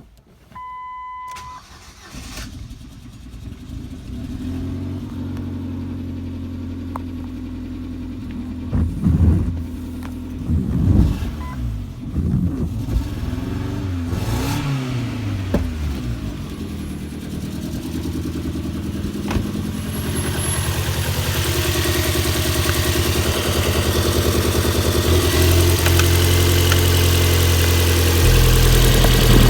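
Ford C-Max's 1.6-litre Duratec four-cylinder petrol engine (HWDA) starting after a short dashboard beep, then idling. It is revved up and let fall back several times between about nine and sixteen seconds in, and it runs louder over the last third.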